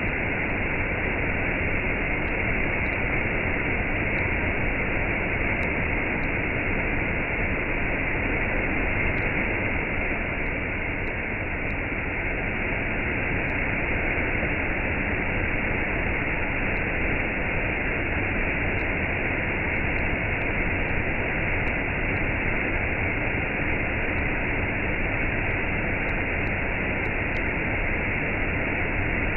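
Waterfall with a cascade, water falling in a steady, unbroken rush.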